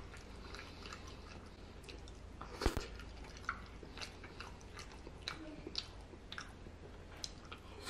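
Close-up chewing of a mouthful of cheesy spaghetti, with many small wet mouth clicks and one sharper click about two and a half seconds in.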